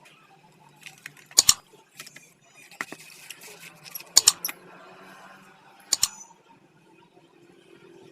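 Sharp metallic clinks and a light rattle of small metal parts or tools being handled, about four separate clanks with some jingling between them.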